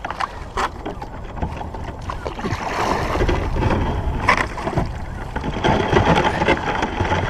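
Kayak being worked through floating river ice: a few sharp knocks of ice chunks against the hull and paddle, one just after the start and another about four seconds in, over uneven sloshing and scraping of water and ice. A low rumble of wind runs on the microphone underneath.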